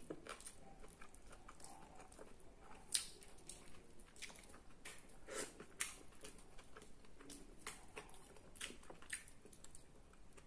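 Faint eating sounds: chewing and mouth smacks while roast chicken is eaten by hand, along with the chicken being torn apart. These come as soft, scattered clicks, with a sharper one about three seconds in.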